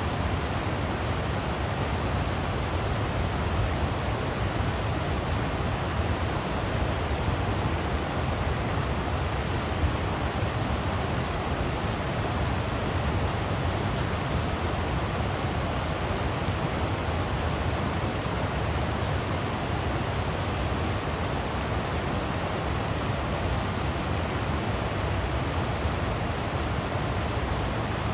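Stream water rushing and burbling steadily over rocks and small check dams.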